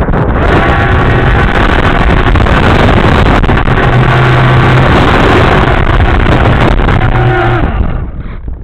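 An engine running with a loud rush of wind over it, then falling away near the end.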